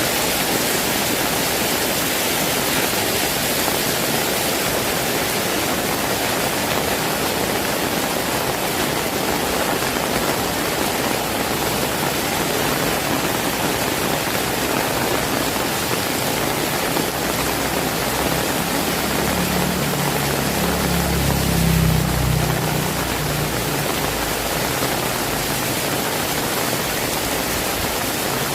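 Heavy rain falling steadily, a dense even hiss. A little past the middle, a low rumble swells for a few seconds and fades.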